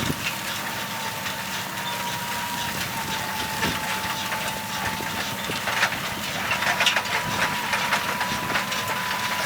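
John Deere tractor running steadily while pulling a cultivator through a field, with a steady high whine and scattered light ticks and rattles.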